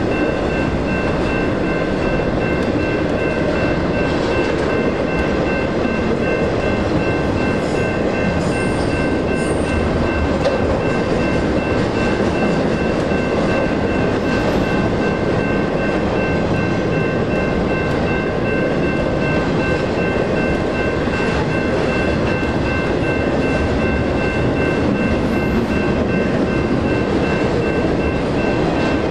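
Double-stack intermodal freight train rolling through a grade crossing: a steady rumble and clatter of the cars on the rails, with the crossing's NEG electronic bells dinging rapidly and evenly throughout.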